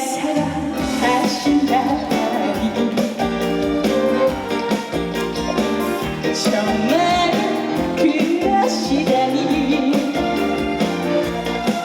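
Live Korean trot song: full band accompaniment with keyboards and a wavering melody line over it.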